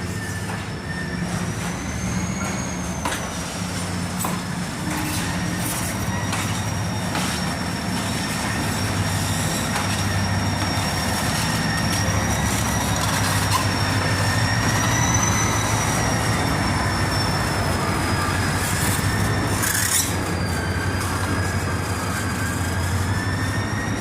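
Train rolling slowly in reverse: the locomotive's engine hums steadily and low, while the wheels squeal in a high, wavering whine and tick over the rail joints, growing a little louder midway as it passes closest.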